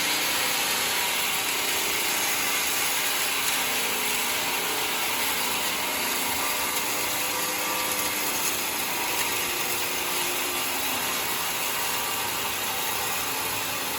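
Homemade sawmill running steadily, its blade sawing through mahogany with an even, continuous rasp.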